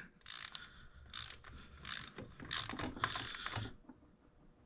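Ratcheting torque wrench tightening the cush drive nut on a scooter engine to 30 newton metres: a series of ratchet clicks about every half second that stops near the end.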